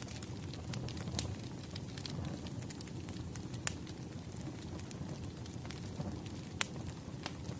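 Wood fire crackling: a steady low rush with scattered sharp pops and snaps.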